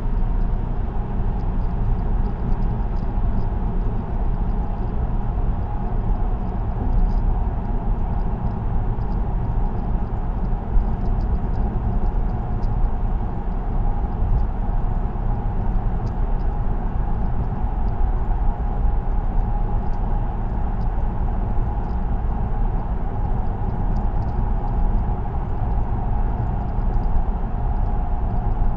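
Steady tyre and road noise of a car cruising on an expressway, heard from inside the cabin, with a constant hum.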